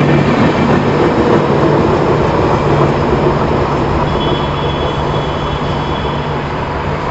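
Passenger train running past, a dense rumble of wheels on track with a low steady hum that slowly fades as it moves away.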